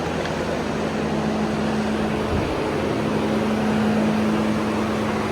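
Car engine idling steadily, a constant low hum with no revving.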